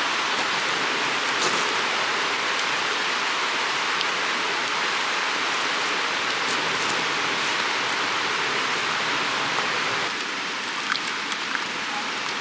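Creek water running steadily, a full rushing noise. About ten seconds in it drops a little, and a few faint clicks follow.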